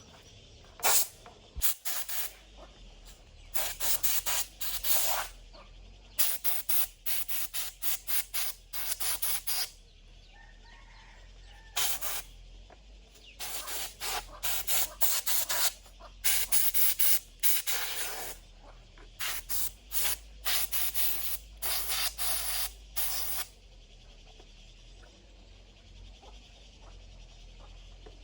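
Short hissing spray bursts, fired in quick runs of several at a time with brief pauses between runs, over a faint low hum.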